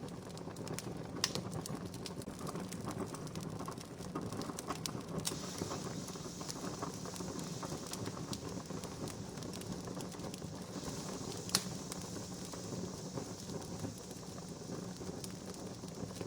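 Wood fire crackling steadily, with many small pops and two sharper, louder pops, one about a second in and one about two-thirds through.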